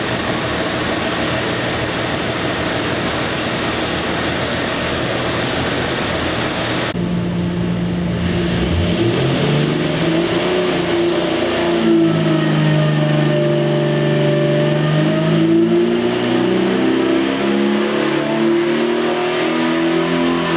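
Jeep 4.6-litre stroker straight-six engine running and revving. A dense, rough note changes abruptly about seven seconds in to a clearer engine note whose pitch slowly rises and falls.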